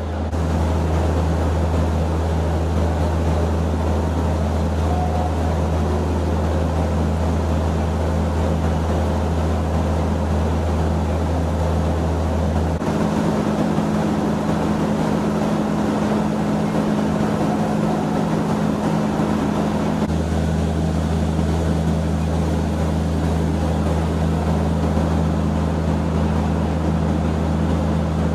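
Steady low mechanical hum from a stationary passenger train's idling machinery. The deepest part of the hum drops away about 13 seconds in and comes back about 20 seconds in.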